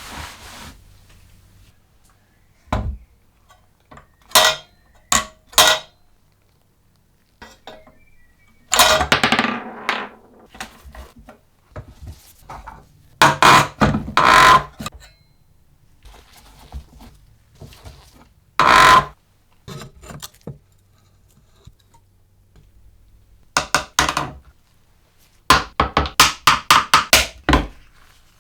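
Metal parts and hand tools knocked and set down on a workbench: separate clinks and clanks, some ringing briefly like metal, and near the end a quick run of about eight taps.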